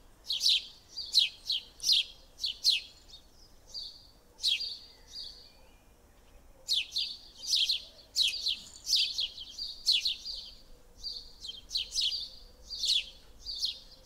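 Small songbird chirping: quick, sharp down-slurred chirps coming in runs of several at a time, with a short pause between runs.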